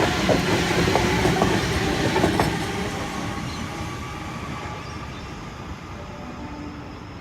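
Sydney Trains Waratah electric train pulling away, its wheels clicking over rail joints for the first couple of seconds before the running noise fades steadily as it leaves.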